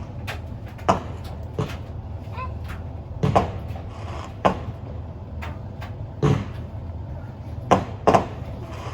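Fireworks going off: about eight sharp bangs at irregular intervals, two pairs close together, over a steady low rumble.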